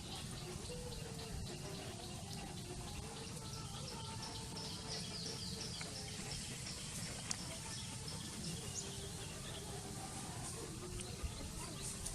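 Outdoor background noise, steady and low, with a quick run of short, high, falling chirps about four to five seconds in.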